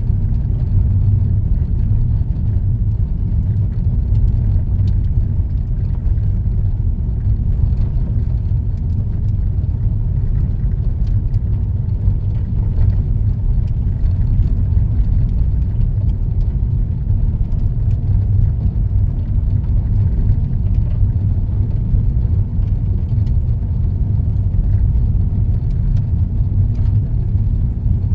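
Steady low rumble of a car's engine and tyres on the road, heard from inside the cabin while driving, with faint scattered ticks.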